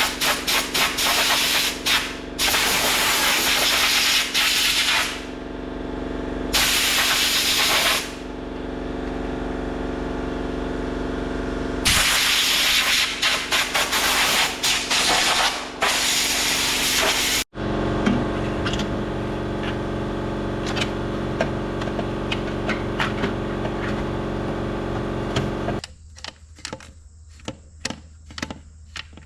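Loud bursts of hissing spray, each lasting one to four seconds, over a motor running steadily underneath. The hum cuts off about 26 seconds in, leaving scattered small clicks and taps.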